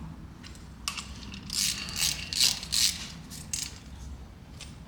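Hand ratchet clicking in several short bursts as it draws the ring gear bolts up onto a GM 8.2-inch differential carrier.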